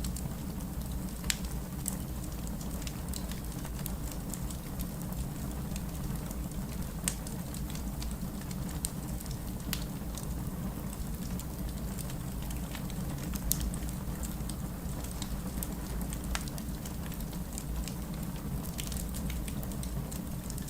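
Fireplace crackling with scattered sharp pops over steady rain and a constant low rumble.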